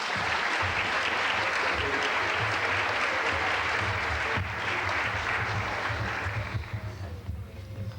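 Audience applauding after a children's song, starting at once and dying away about six or seven seconds in.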